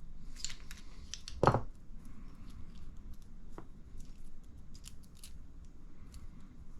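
Small clicks and scrapes of hobby tools and plastic RC shock parts being handled on a workbench, with one louder knock about a second and a half in.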